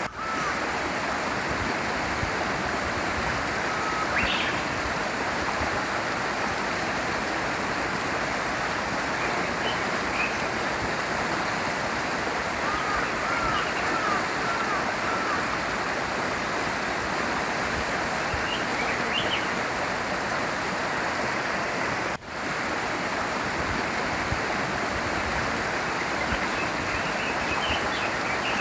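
A small brook flows steadily, with scattered short bird chirps over the water; a run of quick repeated notes comes about halfway through. The sound drops out for a moment about three quarters of the way through.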